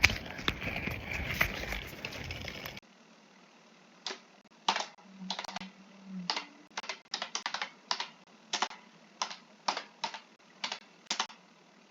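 Keys clicking on a keyboard in uneven bursts of typing, about sixteen sharp strokes. It is preceded by a few seconds of loud, even noise that cuts off suddenly.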